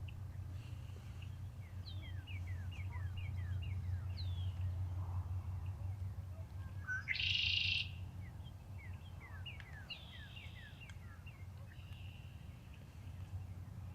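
Songbirds calling: two runs of quick, falling chirps, with one louder harsh call about seven seconds in, over a steady low hum.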